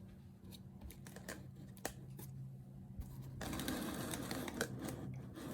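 Powered-up pinball mech board transformer humming steadily, with scattered clicks and, from about three and a half seconds in, a louder stretch of rustling handling noise.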